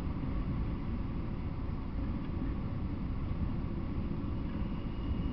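Freight train of enclosed autorack cars rolling past: a steady low rumble of steel wheels on the rails.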